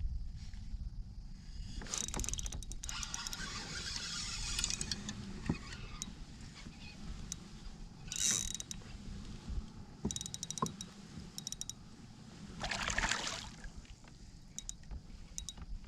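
A fishing reel being cranked to retrieve line, a rapid mechanical clicking and whirring in runs, about two seconds in and again about ten seconds in. Short whooshing rushes come about eight and thirteen seconds in.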